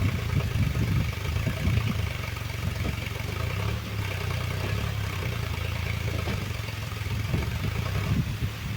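Tractor's diesel engine running steadily at low speed.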